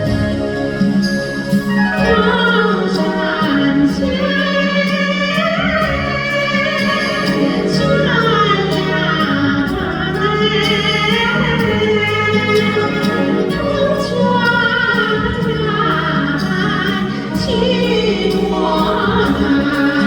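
A female singer performs a Chinese song over instrumental accompaniment, with long held notes and vibrato. Her voice comes in about a second and a half in.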